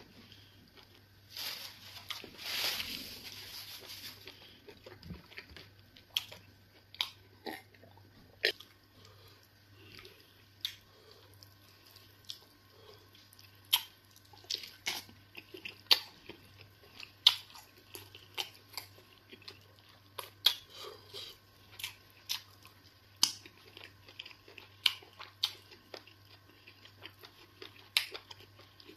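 Close-miked, open-mouthed chewing of soft eba and egusi soup eaten by hand: wet mouth sounds and many sharp lip smacks and clicks at an uneven pace, with a longer, louder wet stretch about two seconds in.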